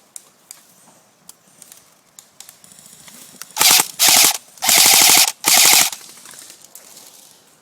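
Airsoft rifle firing on full auto in four quick bursts of rapid clicking shots, close by, a few seconds in.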